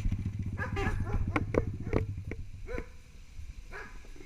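A dog barking and yelping in short calls, over a motorcycle engine idling with a fast low pulse that fades out about two-thirds of the way in.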